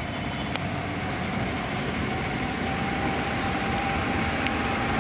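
Steady rain hiss on a wet city street, slowly growing louder as the rain picks up, with a faint steady hum from about two seconds in.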